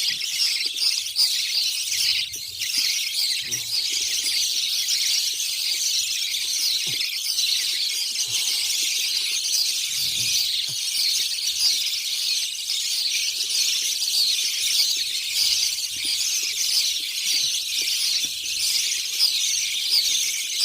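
Many small birds chirping at once in a dense, continuous, high-pitched chorus of overlapping chirps.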